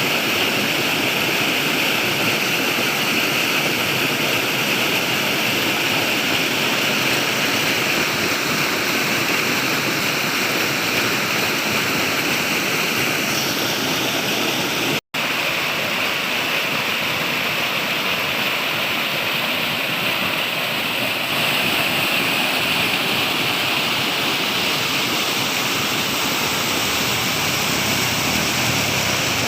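Flowing water running steadily, with a momentary cut to silence about halfway through.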